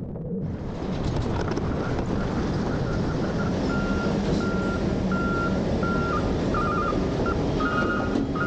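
Heavy diesel garbage truck running, its engine rumbling steadily, and about halfway through its reversing alarm starts beeping at an even pace, roughly twice a second, as it backs up to dump.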